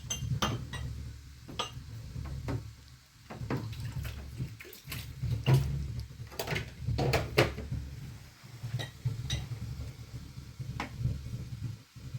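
Dishes and utensils clinking and knocking irregularly over a low, steady rumble.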